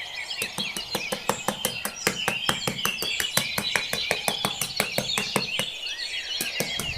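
Birds chirping over a rapid, irregular series of sharp clicks or taps, about five or six a second.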